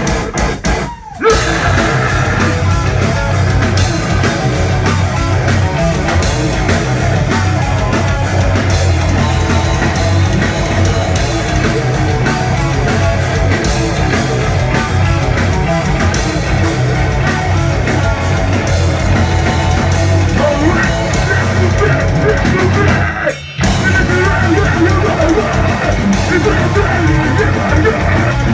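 Heavy metal band playing live and loud, with distorted electric guitars, bass and drums. The band stops short for a moment about a second in and again about five seconds before the end.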